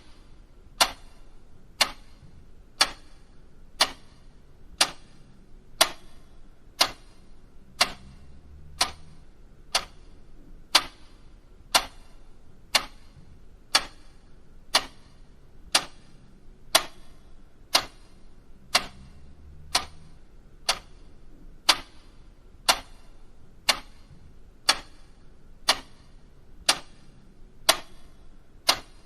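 Mechanical clock ticking steadily, one sharp tick a second.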